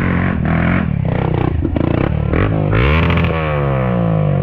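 Dirt-bike engine revving in short blips, then one long rev that climbs steeply in pitch about two and a half seconds in and falls away after three seconds, with some clatter.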